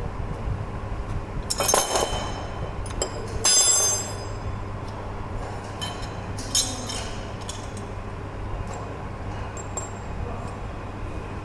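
Metal clinking and ringing, as of tools and parts knocked together, with a loud ringing strike about three and a half seconds in, over a steady low hum.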